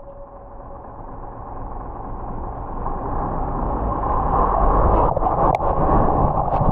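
Road traffic noise on wet roads, swelling steadily over about four seconds and then holding, with two sharp clicks about five seconds in.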